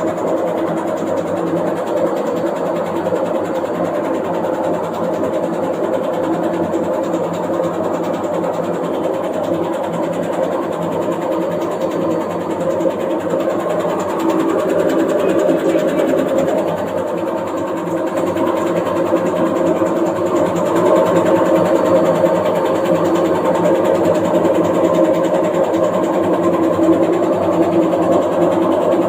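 Washing machine running, a loud steady mechanical noise from a machine that shakes and moves in place, which the owner treats as a fault. The noise steps up about halfway through and again about two-thirds of the way in.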